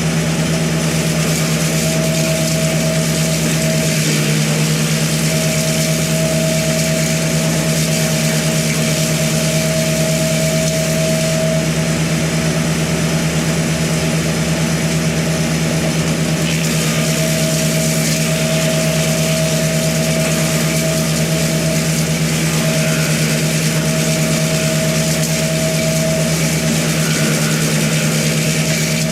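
An engine running steadily at an even speed, with a higher whine that drops out and returns a few times.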